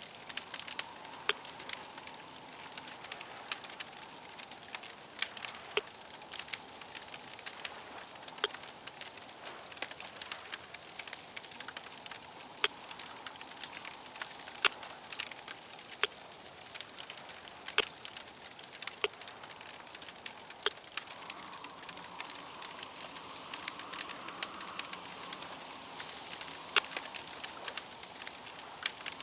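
Campfire crackling: a steady hiss with frequent sharp pops and snaps at irregular intervals.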